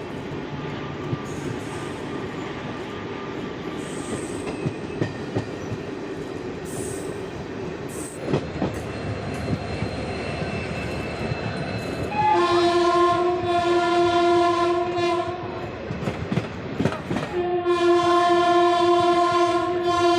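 Express train running along the track with rail clicks, then the locomotive horn sounds two long blasts, the first about twelve seconds in for some three seconds and the second about two seconds later, still sounding at the end.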